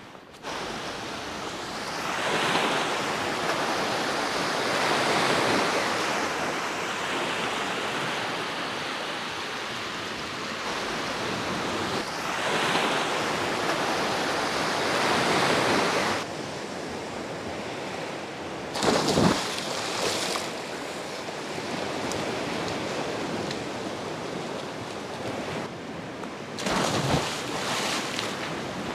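Sea waves washing in and drawing back, the surf swelling and easing every few seconds, with some wind on the microphone. Twice a short, louder thump cuts through.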